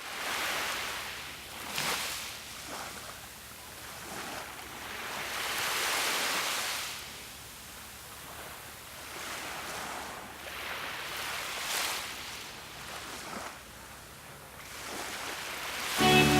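Ocean surf: waves washing in and breaking, the rush of water swelling and fading every few seconds. Music comes in near the end.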